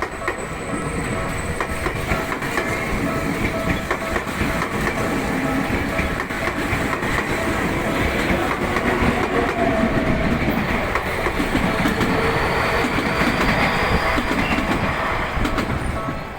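Electric commuter train running past on the tracks: a steady rumble of wheels on rail with scattered clicks and a faint whine throughout.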